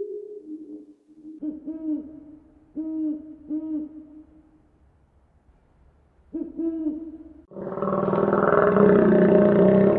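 An animal giving short, low hooting calls that rise and fall in pitch, mostly in pairs, with a few seconds of silence between groups. About three-quarters of the way in, a much louder, dense, steady noise starts abruptly and becomes the loudest sound.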